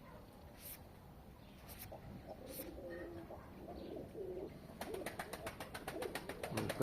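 Domestic pigeons cooing in low, soft calls. A fast run of clicks comes in about the last two seconds.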